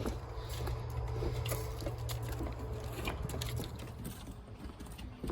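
Footsteps while walking, with scattered light clicks and ticks over a steady low rumble.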